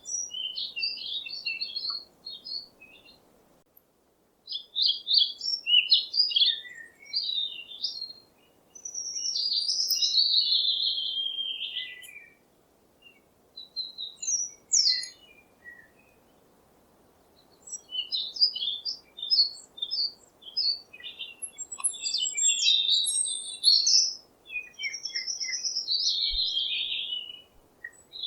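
Small songbirds chirping in bursts of quick high notes, with two longer phrases that slide down in pitch, about a third of the way in and near the end, and short pauses between the bursts.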